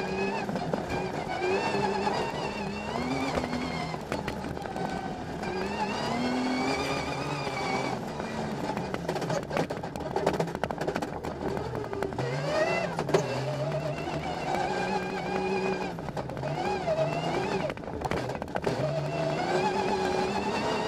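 Rally car's engine heard from inside the cockpit, revving hard and rising and falling in pitch as it accelerates, shifts and brakes along the stage. Several short sharp knocks come around the middle and again near the end.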